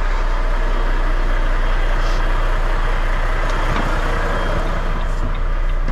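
Diesel semi-truck engine idling steadily, with a few faint clicks.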